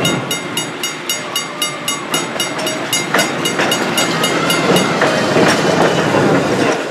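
Electric trolley running on its track, with a rapid, even clicking of about four to five a second that stops about five seconds in.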